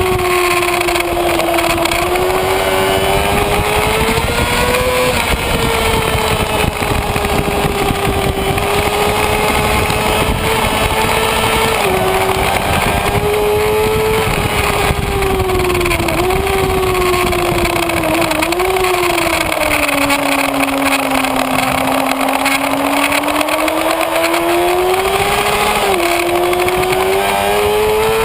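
Kawasaki Ninja ZX-6R inline-four engine running at speed, its pitch rising and falling with the throttle, with several quick drops in pitch from gear changes and a long dip in the pitch about two-thirds of the way through. Heavy wind rush on the onboard microphone.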